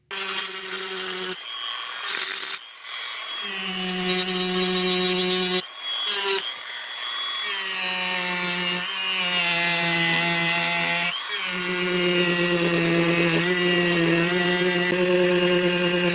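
Small electric rotary tool running in a series of runs, switched off and on again about six times. Its steady whine sags a little in pitch while it works at cleaning the locomotive's wheels.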